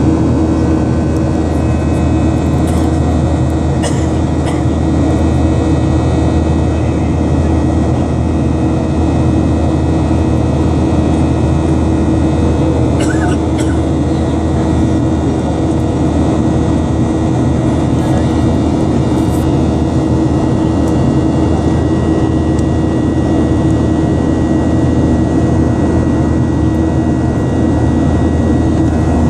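Boeing 737 jet engines running steadily, a constant roar with a low droning hum.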